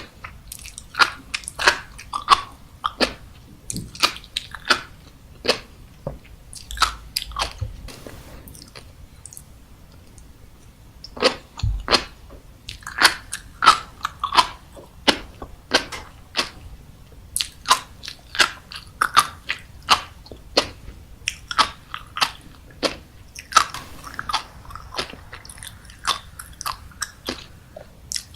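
Close-miked chewing of raw seafood, with runs of sharp, crisp pops and crunches and a short quieter pause part-way through.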